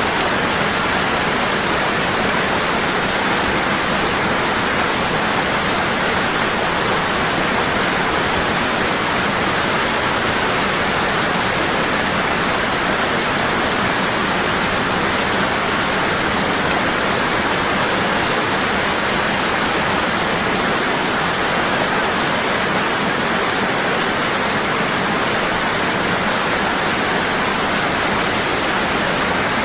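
Waterfall falling strong and constant: a steady, even rush of water with no change in level.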